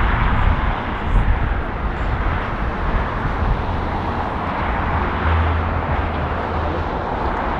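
Jet airliner engine noise: a steady, even rush with a low rumble underneath.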